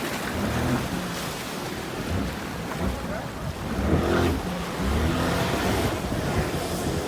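Wind buffeting the microphone over open water, with a jet ski's engine running low underneath.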